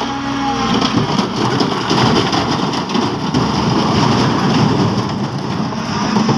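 A load of stones sliding and pouring off the tipped bed of a dump truck: a dense, continuous clatter of many rocks tumbling together.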